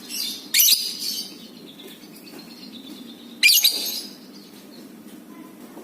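Lovebird calling in loud, shrill chattering bursts: two close together about half a second in and another at about three and a half seconds.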